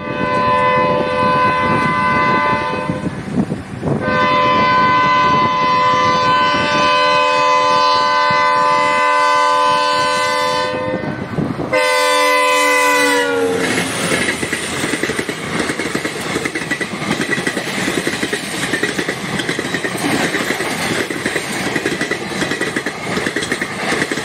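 Indian Railways diesel locomotive sounding its multi-tone horn three times, a short blast, a long one and a last one that drops in pitch as the locomotive passes close by. Then the passenger coaches run by with a steady wheel rumble and clickety-clack on the rails.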